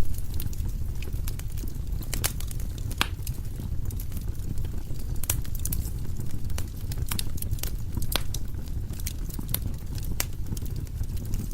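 Firewood burning in a fireplace: irregular sharp crackles and pops, several each second, over a steady low rumble of the flames.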